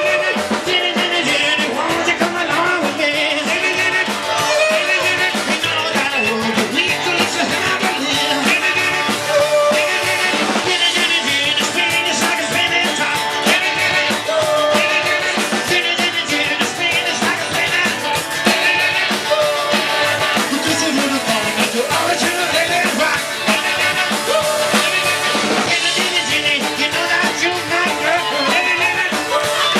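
Live rock and roll band playing an instrumental passage with a drum kit.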